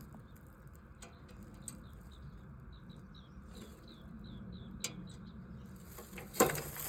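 A bird calling a quick run of about ten short, evenly spaced high chirps over two seconds, over a faint steady low rumble. A few sharp clicks are heard, and one loud knock comes near the end.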